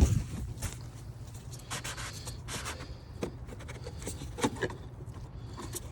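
A 36 mm socket and wrench unscrewing the oil filter housing cap on an Audi S4 B8.5 engine: a sharp knock at the start, then scattered rubbing, scraping and light clicks, with another knock about four and a half seconds in.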